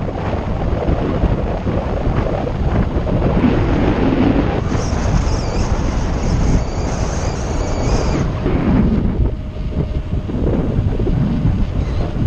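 Wind buffeting the microphone while riding a bicycle: a loud, steady, low rumbling rush. For about three seconds in the middle, a high-pitched sound joins it.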